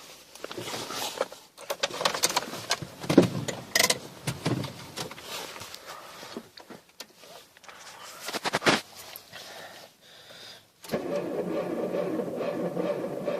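Irregular knocks, clicks and rustling, then about eleven seconds in a Mitsubishi Lancer's engine starts in deep cold (about −26°C) and settles into a steady idle.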